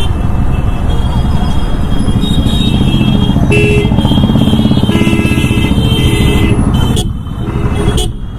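Motorcycle riding in traffic: engine and heavy wind buffeting on the helmet camera's mic, the wind noise being the fault this setup suffers from. Other vehicles' horns honk from about two seconds in until near the end.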